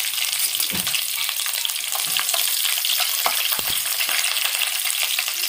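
Slit green chillies, dried red chillies and curry leaves frying in hot oil in a metal pot: a steady crackling sizzle. A spoon stirring them gives a few sharp knocks against the pot.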